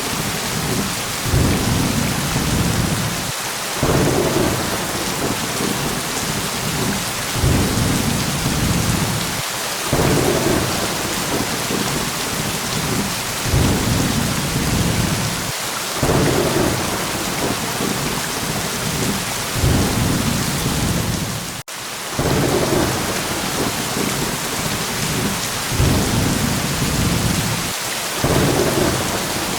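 Steady heavy rain with low thunder rumbles swelling about every three seconds. The sound briefly cuts out about two-thirds of the way through.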